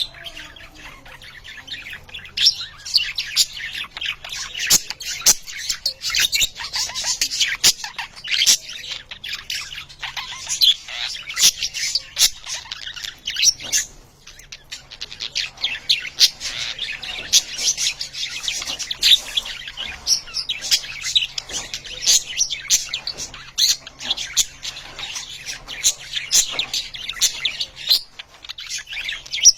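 A flock of budgerigars chattering: a dense, continuous stream of rapid high chirps, with a short lull about halfway through.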